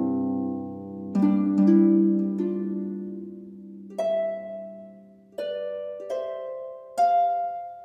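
Slow relaxing harp music: single plucked notes and chords that ring out and fade, a new note or chord every one to two seconds.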